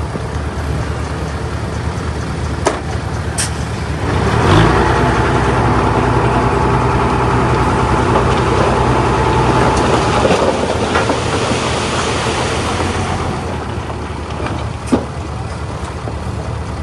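Heavy diesel earthmoving machinery running, its engine getting louder and working harder about four seconds in and easing off near the end, with a few sharp clanks.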